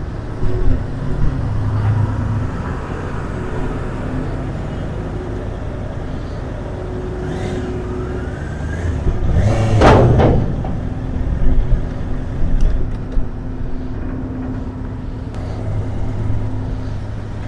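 Motor vehicle engines running steadily with a low hum. About ten seconds in there is a louder, pitched swell, then a few short knocks.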